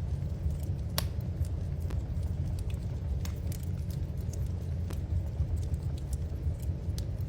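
Wood fire in a fireplace crackling, with scattered sharp pops, the loudest about a second in, over a steady low rumble.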